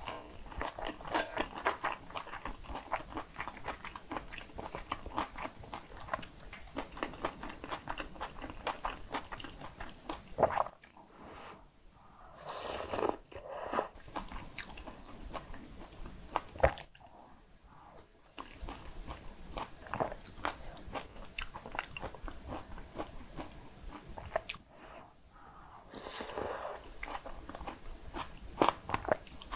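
Close-miked eating sounds: crunchy chewing of bibimbap made with seasoned raw radish and cockles, with a few sharp clicks and short quiet breaks between mouthfuls.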